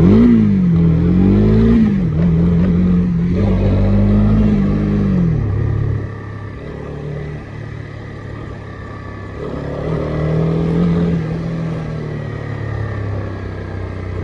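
Honda CB300R's single-cylinder engine under way, its pitch rising and falling with the throttle. It is loudest in the first five seconds, settles lower and quieter about six seconds in, and picks up again briefly around ten seconds.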